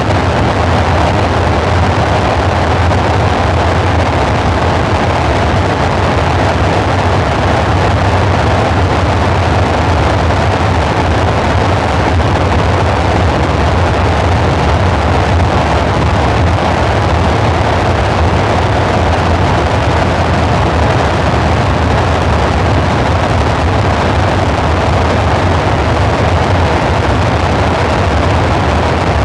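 Dark ambient synthesizer drone: a loud, steady, dense noise with a strong low hum and a hissing mid band, holding unchanged throughout.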